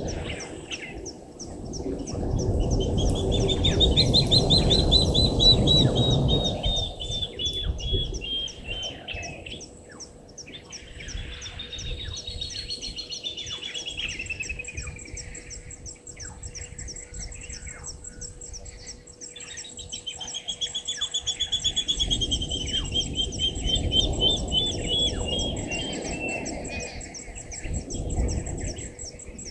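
Wild birds singing: three long strings of rapid notes that drop slowly in pitch, over a fast, high-pitched chirping that runs throughout. A low rushing noise swells up twice, loudest in the first few seconds and again in the last third.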